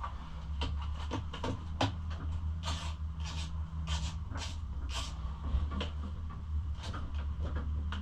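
Irregular clicks, knocks and short scrapes of hand work on a pit bike: bolts, nuts and fender plastics being handled and fitted. A run of short scraping strokes comes about half a second apart near the middle, over a steady low hum.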